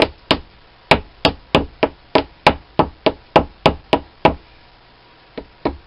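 Hand hammer striking repeatedly in a steady rhythm, about three sharp blows a second, to drive a stuck part out of an ENCO lathe's tool post. The blows stop for about a second, then two more land near the end.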